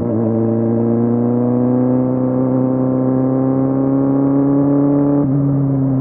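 Kawasaki Z750 inline-four motorcycle engine running under load, its pitch climbing slowly as the bike gathers speed. There is a brief dip right at the start, and the pitch steps down about five seconds in.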